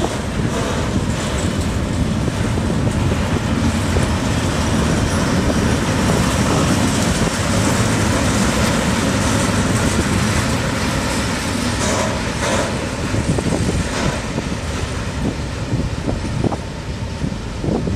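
A train running past, with a loud, steady rolling noise that eases a little near the end.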